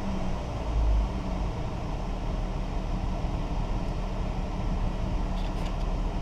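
A 2018 Dodge Journey's 3.6-litre Pentastar V6 running steadily at idle, with a brief low swell about a second in. A few faint clicks near the end.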